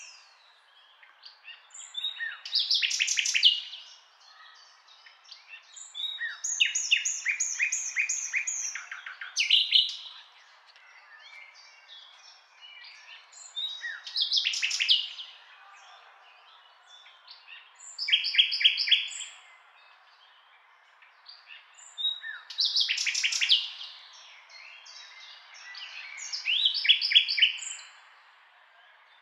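A songbird singing: short phrases of rapid chirping notes, one phrase every three or four seconds, over a faint steady background hiss.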